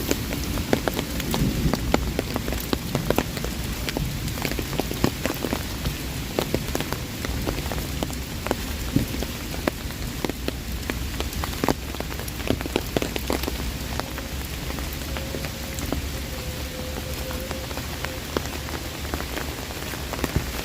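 Heavy rain falling on an umbrella: a steady hiss of rain crowded with sharp, irregular ticks of individual drops striking the canopy, over a low rumble.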